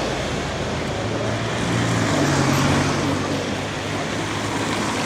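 Road traffic on a rainy city street: a vehicle's engine hums low and steady for a few seconds as it passes, over a continuous hiss of rain and tyres on wet road.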